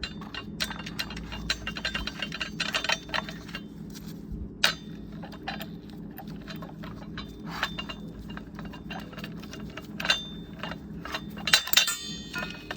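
Hand ratchet wrench clicking in runs of quick strokes as nuts are tightened down, with a sharp metal clink about four and a half seconds in and a burst of louder clinks near the end.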